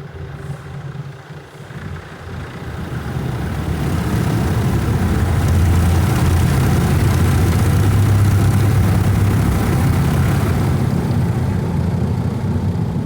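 Automatic tunnel car wash working over the car, heard from inside the cabin: brushes and water beating on the body in a heavy rumble. It builds over the first few seconds and then stays loud, a rough wash that really hits the car.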